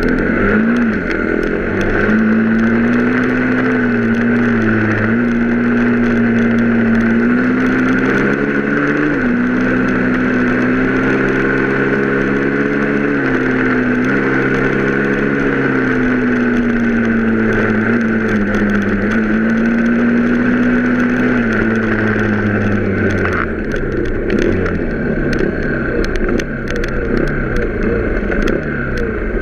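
Vehicle engine running while driving at a fairly steady speed, its pitch stepping up and down slightly, then dropping and becoming uneven as it slows, about three quarters of the way through.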